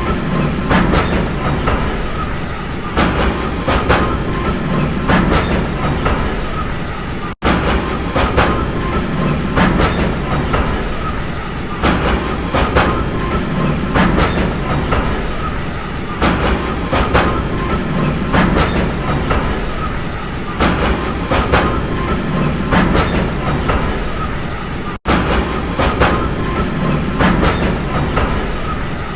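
Train running on rails, its wheels clicking over the rail joints in a steady repeating clickety-clack over a low rumble. The sound cuts out for an instant twice.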